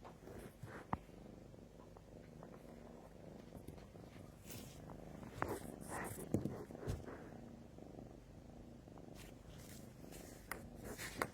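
Domestic cat purring steadily, close by, with a few small clicks and taps over it, the loudest about halfway through.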